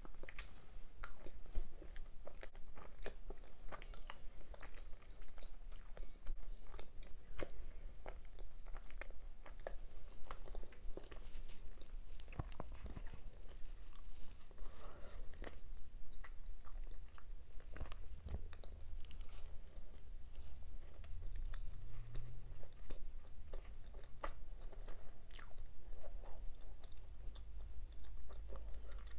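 A person chewing food close to the microphone, with many small clicks and smacks of the mouth all through.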